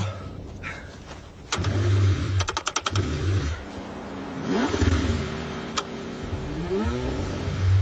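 Car engine being cranked in freezing cold and struggling to start, in uneven bursts with runs of rapid ticking and a rising pitch near the end.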